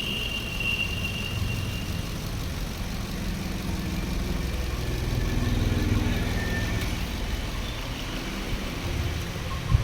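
Car engine idling with a steady low running sound, and a single sharp click near the end.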